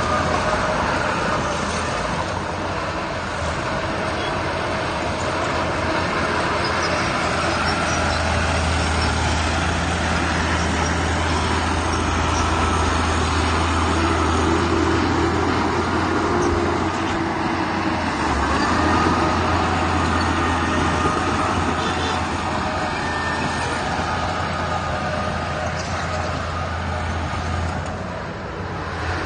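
Heavy diesel engine of a large construction vehicle running steadily, a continuous low drone under dense mechanical noise, easing off slightly near the end.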